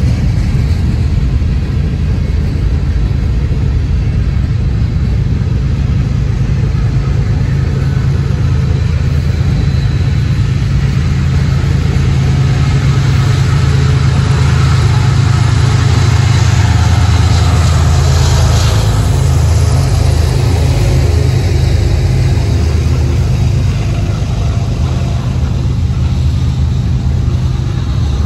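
Freight train passing close by: steel wheels rolling on the rails with a loud, steady low rumble. Mid-train diesel locomotives pushing within the train make it swell louder around the middle before it eases again as freight cars keep rolling past.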